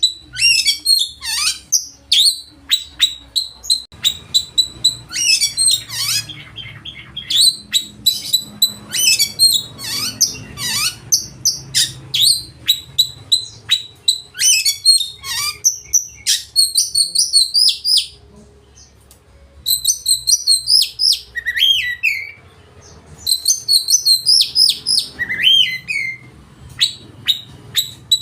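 Oriental magpie-robin (kacer) singing loudly, a fast, varied run of whistles, chirps and sweeping notes, with two short breaks in the second half.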